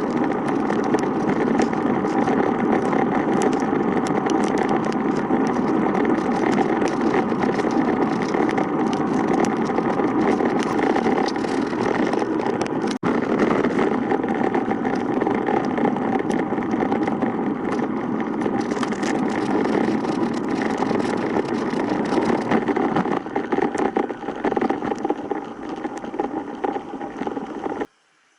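Steady, loud traffic and road noise with a running engine sound, heard while riding a road bike along a road. It cuts off suddenly near the end.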